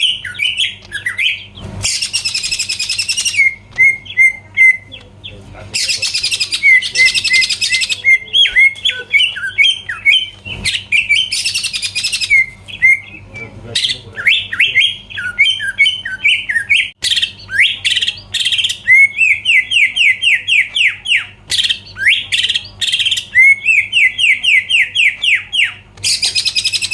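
Cucak ijo (green leafbird) in full song: fast runs of sharp chirps and slurred whistles, broken four times by harsh rasping bursts, with long rapid strings of repeated downslurred notes in the second half.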